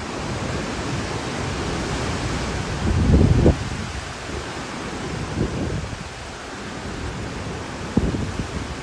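Hurricane wind blowing as a steady rushing noise, with gusts buffeting the microphone about three seconds in and again near the end.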